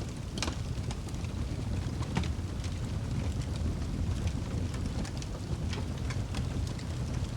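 Wood fire burning in a fireplace: a steady low rumble of flames with irregular sharp crackles and pops, about one or two a second.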